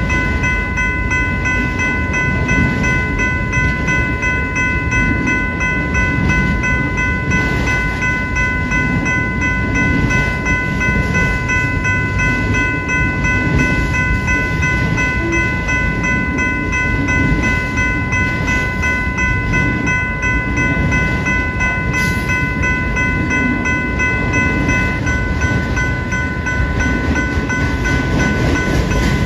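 Freight train rolling through a railroad crossing: a steady low rumble of passing cars, with steady high ringing tones held over it.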